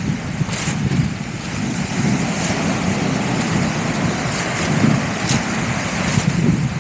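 Waves washing on the shore in a continuous hiss, with wind buffeting the microphone as a fluctuating low rumble.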